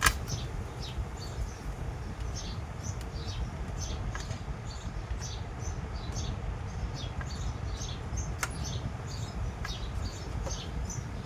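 Small birds chirping repeatedly in short high notes, several a second, over a steady low rumble.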